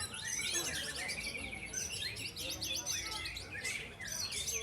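White-rumped shamas (murai batu) singing over one another in a dense chorus of fast trills and chirps.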